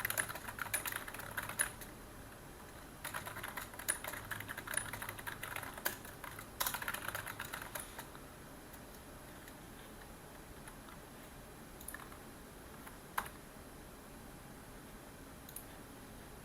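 Computer keyboard typing in two quick runs that stop about halfway through, followed by only a few single key clicks.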